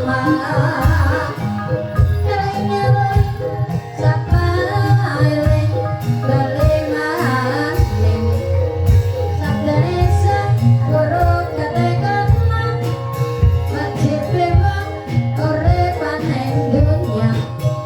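Banyumasan gamelan music accompanying ebeg, with a woman singing a wavering melodic line over metallophone tones and steady low drumming.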